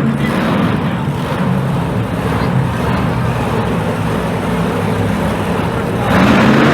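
Monster truck engine running steadily. It gets louder about six seconds in.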